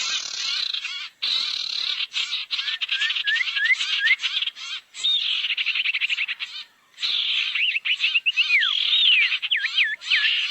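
A bird-lure recording of sirtu bird calls: a fast, dense chatter of rapid pulses, with a short series of quick rising whistled notes about three seconds in and louder sliding, swooping whistles in the second half. The sound breaks off briefly twice.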